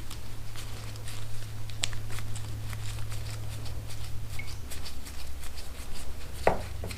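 Hands disconnecting the wire connectors at a motorcycle's ignition coil: scattered light clicks and taps, with one sharp click about two seconds in and a couple of louder knocks near the end. A steady low hum runs underneath.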